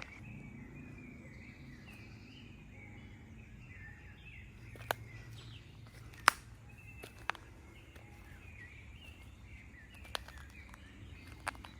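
Birds chirping repeatedly over a low outdoor rumble, with about five sharp clicks scattered through, the loudest a little past the middle.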